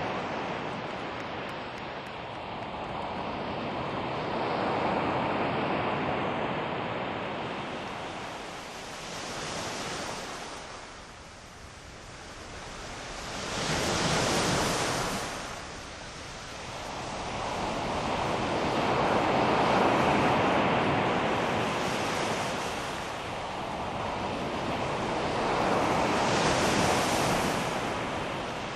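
Ocean waves surging and falling back every few seconds, as a recorded sea sound effect.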